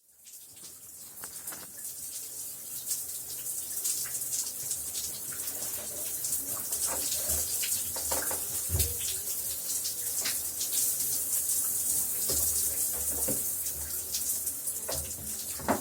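Shower running: a steady hiss of spray with irregular splashes and patters of water hitting below. It fades in over the first couple of seconds.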